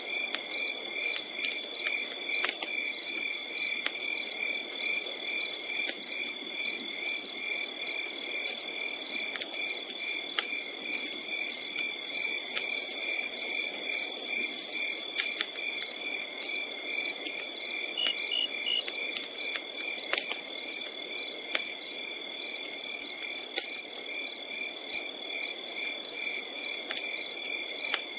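Chorus of crickets and other night insects, some trilling steadily and others chirping in quick pulses. Campfire crackling runs through it with scattered sharp pops. A higher insect buzz joins for a few seconds near the middle.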